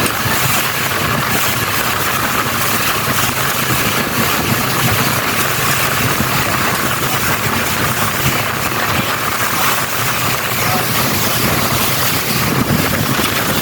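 Motorboat engine running steadily with the boat underway, mixed with a steady rush of wind and water.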